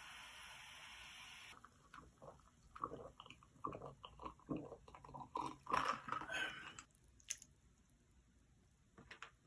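Close-up eating sounds: wet slurping and chewing of curry ramyeon noodles, a quick run of short squishy mouth sounds, with a few sharp clicks near the end.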